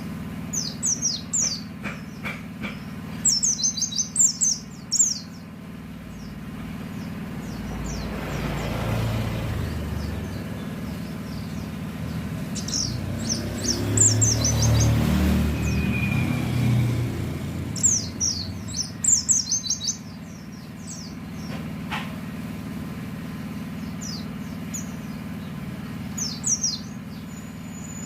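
White-eye (pleci) singing in bursts of rapid high chirping phrases. In the middle a passing vehicle's rumble swells and fades.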